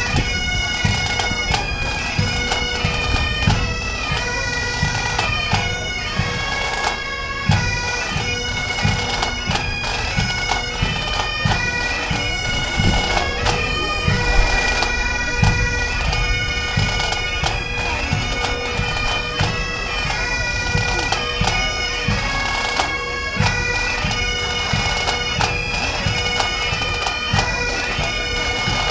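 Bagpipes playing a tune, the chanter's melody stepping from note to note over one steady drone.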